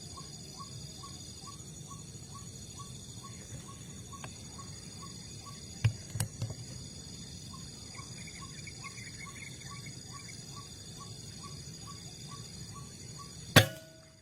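Short calls repeated about three times a second, typical of the white-breasted waterhen (wak-wak bird), over steady cricket trilling. A few clicks come about six seconds in, and one sharp, loud crack near the end.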